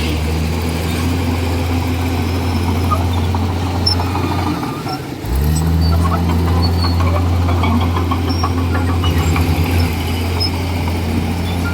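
Komatsu D41E bulldozer's diesel engine running steadily under load. About halfway through it drops off for a moment, then picks back up with a quick rise in pitch. Light rattling clicks run through the latter half.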